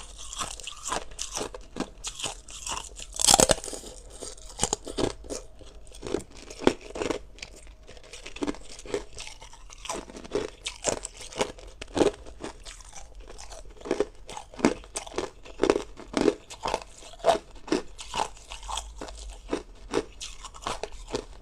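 Hard ice being bitten and chewed close to the microphone: a rapid run of sharp, crackling crunches, with the loudest bite about three seconds in.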